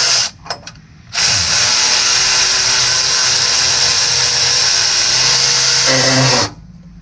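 Cordless electric ratchet spinning a bolt: a brief zip at the start, then about five seconds of steady motor whir that cuts off suddenly.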